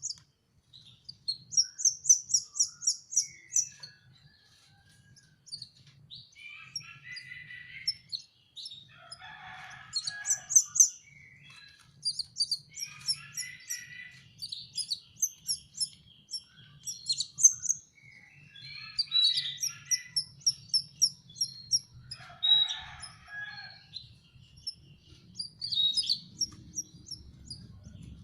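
Canary chicks begging to be fed: rapid trains of short, high-pitched chirps, repeated in runs of a second or two again and again.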